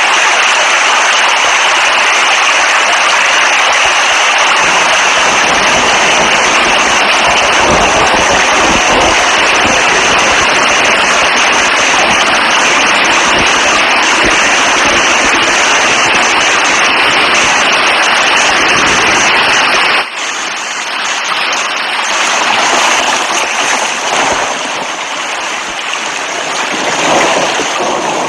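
Heavy rain falling in a steady, dense hiss. About twenty seconds in it cuts abruptly to a different, quieter rain recording that swells and fades.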